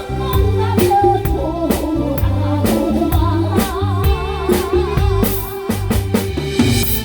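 Live band playing a song: a singer's voice with wide vibrato over drum kit, bass and chords, with a steady beat.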